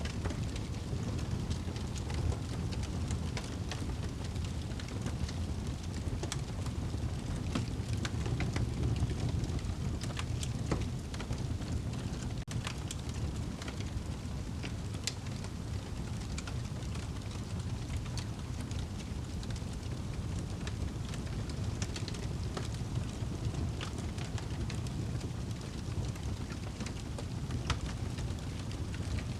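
Wood fire crackling in a fireplace: a steady low rumble of burning with irregular sharp snaps and pops scattered throughout.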